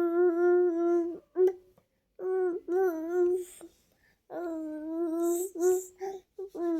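A small child singing wordlessly in long held, slightly wavering notes, in about four phrases with short breaths between them.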